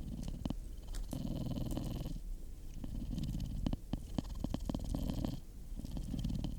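Cat purring in slow breath cycles, about a second each, with a wood fire crackling and popping; a run of sharp pops comes around the middle.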